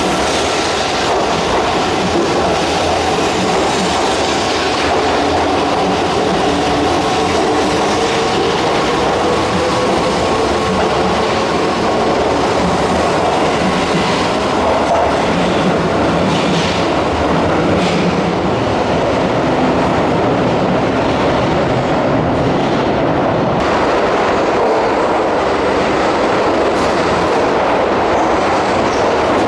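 Keihan Main Line electric train running at the platform, wheels clattering over the rails with a steady loud rumble, and a faint motor whine that glides slowly down in pitch partway through.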